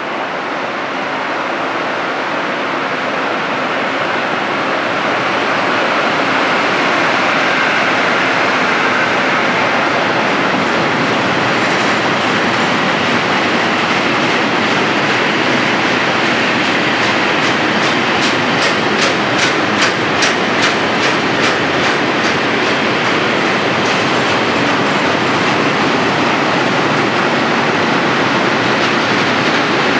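A train running past on the tracks. Its wheel-and-rail noise grows louder over the first few seconds and then holds steady. Partway through there is a run of quick, regular clicks as the wheels cross rail joints.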